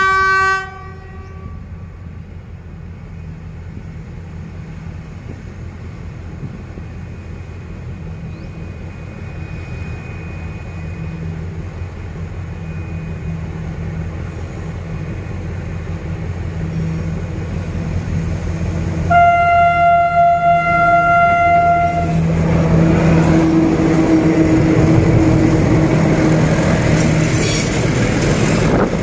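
Freight train hauled by D18E and D11H diesel locomotives approaching a level crossing: a short horn toot at the start, then the diesel engines' rumble growing steadily louder. About two-thirds of the way in comes a horn blast of about three seconds, then the locomotives and container wagons pass close with loud wheel-on-rail noise.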